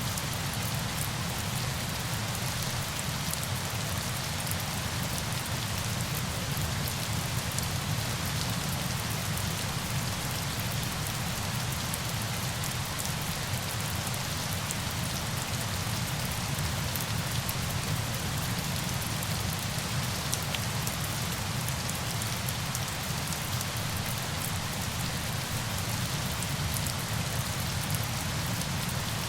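Steady rain falling: an even, unbroken hiss with fine droplet patter, unchanging throughout.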